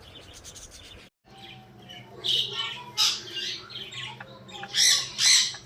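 Pet parrots squawking and chirping. The calls start after a brief break about a second in and come in loud harsh bursts several times in the second half, over a low steady hum.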